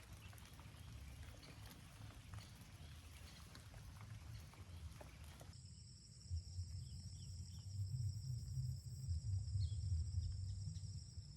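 Rainforest ambience: scattered clicks and rustling for the first half, then, after an abrupt change about halfway in, a steady high-pitched insect chorus over a low rumble.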